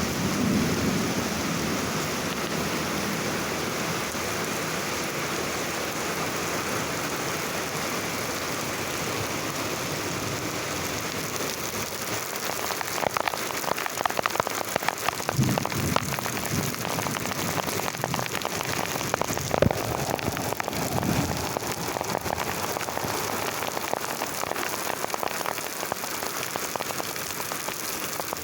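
Heavy rain in a thunderstorm, falling steadily, with the last of a thunder rumble dying away at the very start. From about halfway on, close drops and splashes tick sharply on a nearby surface, with a few low thumps among them.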